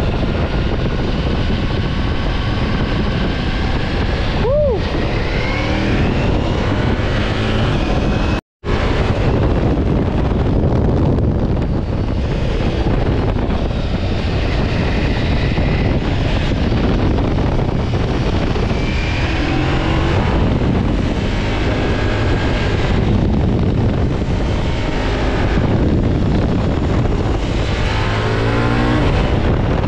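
Ducati Multistrada V4 S motorcycle ridden on the road, its engine running under a steady rush of wind, with the engine pitch rising and falling as it speeds up and slows. The sound cuts out completely for a moment about eight and a half seconds in.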